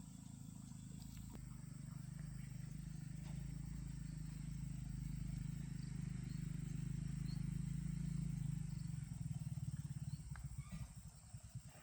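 Tractor engine running with a steady low rumble, then turning unevenly in pulses near the end.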